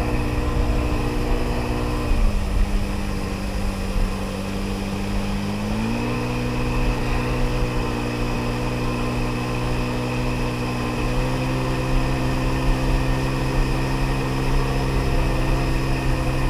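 Sea-Doo XP jet ski's 80 hp two-stroke engine running under way; its revs drop about two seconds in, pick back up about six seconds in and rise a little more near eleven seconds.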